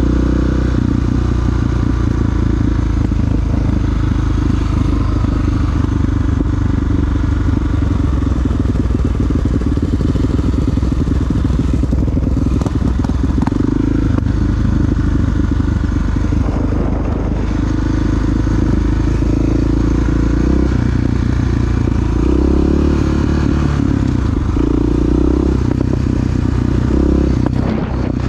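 Big single-cylinder four-stroke dual-sport motorcycle engine running under way. The engine note rises and falls several times in the last third.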